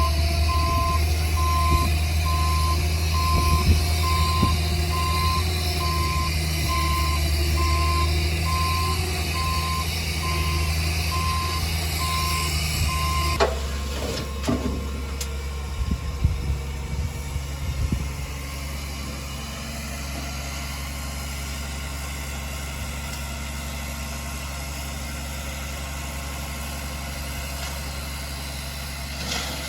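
Dump truck's backup alarm beeping in a steady, even rhythm over its heavy diesel engine as it reverses. The beeping stops about halfway through, a few clunks follow, and the engine settles to an idle.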